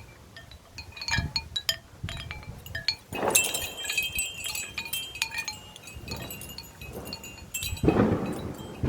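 Wind chimes ringing irregularly in gusting storm wind, with louder clusters of chiming about three seconds in and again near the end.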